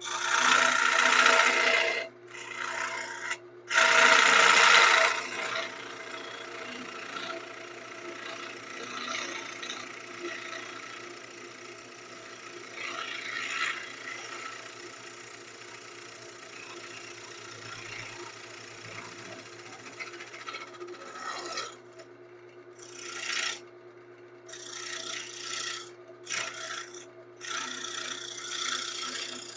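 Wood lathe running with a steady motor hum while a turning tool cuts into the spinning wood, in loud hissing passes at the start and again about four seconds in. Softer scraping follows, then short cuts in quick succession near the end.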